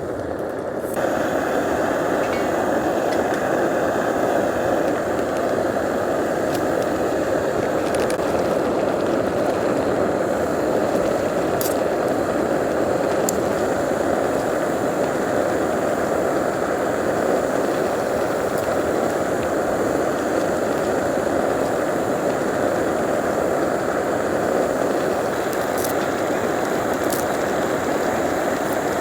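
Pot of ramen boiling hard on a camp stove: a steady, dense bubbling hiss that starts about a second in, with a few faint clinks.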